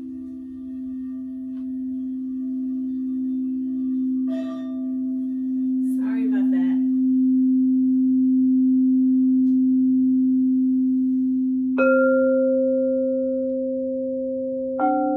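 Crystal singing bowls. A low, steady ringing tone slowly swells in loudness. About twelve seconds in a second bowl is struck and rings on at a higher pitch, and a third, higher bowl is struck just before the end.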